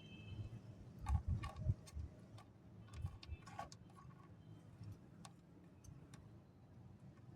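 Light, dry clicks and ticks of small crunchy snack pieces (mixed namkeen) being picked up and dropped while they are sorted by hand. The clicks come in a quick cluster about a second in and another around three and a half seconds in, with a few scattered ones after.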